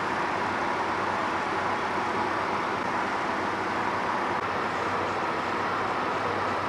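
Combine harvester's engine and threshing machinery running steadily while cutting wheat: an even, unbroken drone with faint steady tones through it.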